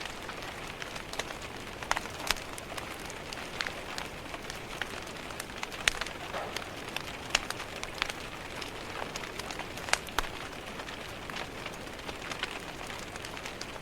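Wood fire crackling and popping at irregular intervals over a steady patter of rain.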